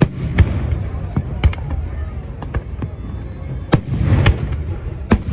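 Aerial fireworks bursting in a rapid, irregular series of sharp bangs over a continuous low rumble, with a denser stretch of crackling about four seconds in.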